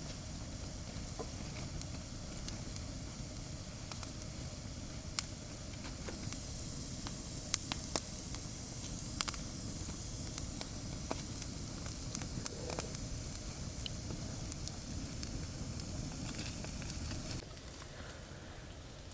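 Campfire burning, with scattered sharp crackles and pops over a steady low noise that drops away a couple of seconds before the end.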